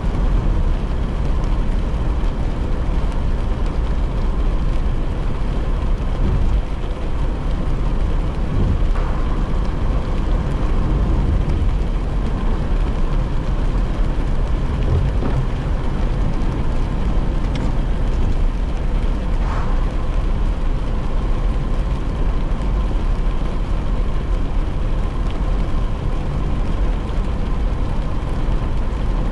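Steady low rumble of a car driving on a wet road, heard from inside the cabin, with an even hiss of tyres and rain over it.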